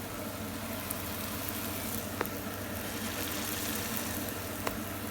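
Hotteok frying in oil in a cast iron pan: a steady, faint sizzle over a steady low hum, with two light clicks, about two seconds in and near the end.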